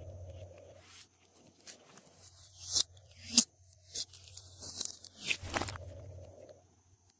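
Glossy slime being worked by hand, with sticky crackling and several sharp pops.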